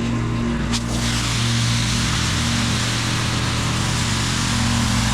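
Gas-engine pressure washer running steadily. About a second in, its high-pressure water spray starts hissing against the pavers, blasting the old sand out of the joints.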